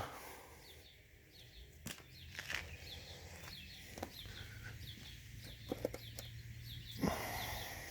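Songbirds chirping in short repeated notes in the background, with a few soft clicks, a faint low hum in the second half and a brief rustle near the end.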